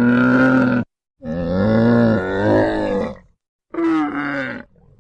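An animal's drawn-out, wavering calls: three in a row, one ending about a second in, a longer one after it, and a shorter one near the end, each cut off abruptly.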